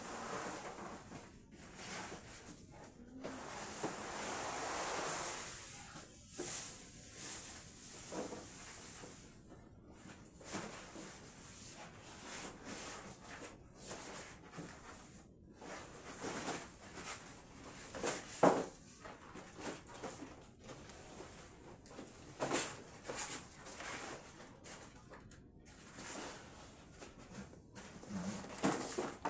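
Unboxing a washing machine: irregular rustling and crinkling of plastic wrap and cardboard packaging, with scattered knocks and scrapes, one sharp knock about two thirds of the way in.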